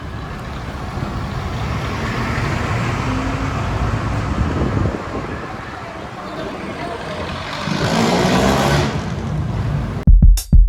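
Rush-hour road traffic heard from a bicycle: a steady mix of engines running, with one vehicle passing close and loud about eight seconds in. Electronic music with a hard drum beat cuts in near the end.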